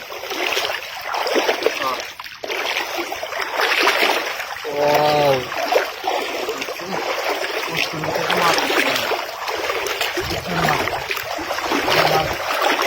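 Water splashing and sloshing as a fishing net is worked in a shallow river. A voice calls out briefly about five seconds in, and low voices come and go later.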